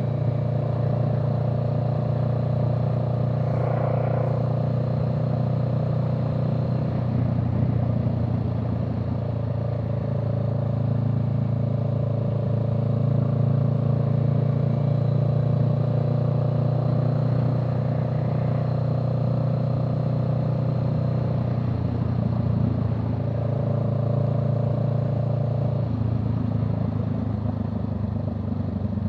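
Vehicle engine running steadily under way, a low continuous drone whose pitch shifts slightly every few seconds.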